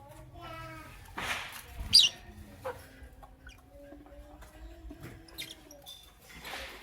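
Lovebirds chirping: a few short, sharp, high chirps, the loudest about two seconds in and another near the end, with brief rustling noises between them.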